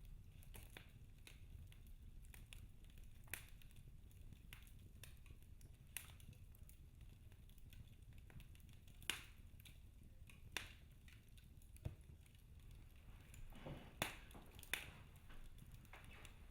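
Wood fire in a fireplace crackling softly, with a handful of sharp pops at irregular intervals over a low steady rumble.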